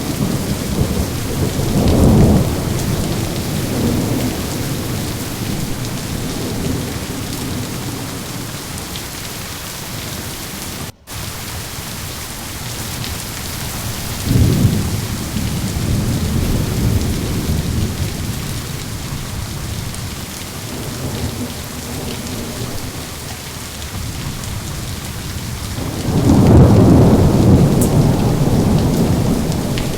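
Steady heavy rain with rolling thunder: a rumble about 2 seconds in, another around the middle, and the loudest, longest roll near the end. The sound cuts out for an instant about a third of the way through.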